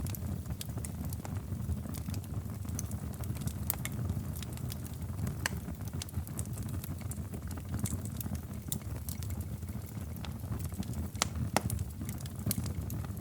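Wood fire in a fireplace crackling: scattered sharp pops and snaps over a steady low rumble of the flames, with a louder pop about eleven seconds in.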